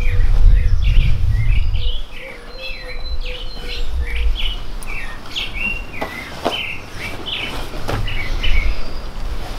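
Songbirds chirping, a rapid run of many short calls repeating throughout. A low rumble in the first two seconds is louder than the birds.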